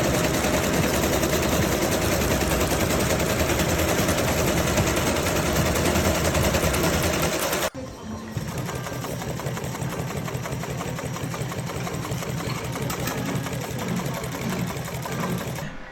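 Sewing machine running steadily as it stitches seat covers. The sound drops off suddenly about halfway through and then goes on more quietly.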